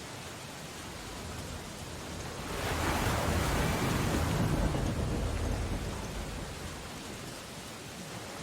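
Steady storm rain on window glass over ocean surf; about two and a half seconds in, a louder, deep surge swells up and dies away over some three seconds.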